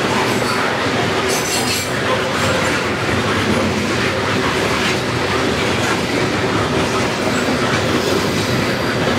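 CSX coal train's open-top coal cars rolling past close by: a steady, loud rumble and clatter of steel wheels on the rails.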